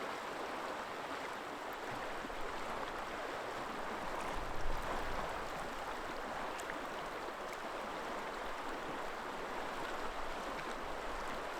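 River water flowing steadily, an even rushing noise. About four and a half seconds in there is a brief low bump.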